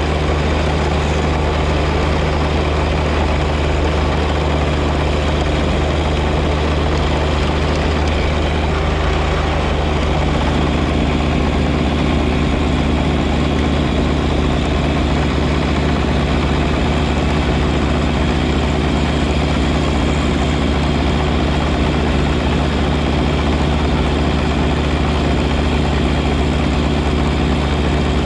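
John Deere 1025R compact tractor's three-cylinder diesel engine running steadily, its tone shifting slightly about ten seconds in.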